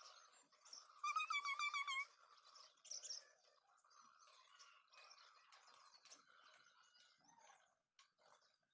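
A small bird chirping faintly, a quick run of about eight short notes about a second in, with one softer chirp a moment later.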